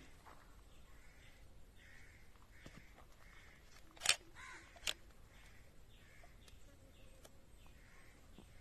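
Faint outdoor ambience with a bird calling over and over in short, evenly spaced calls. Two sharp clicks come about four seconds in, under a second apart, and are the loudest sounds.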